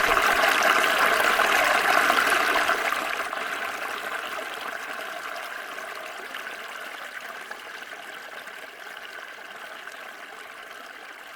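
Water of a small stream flowing and trickling in a steady rush, fading out gradually from about three seconds in.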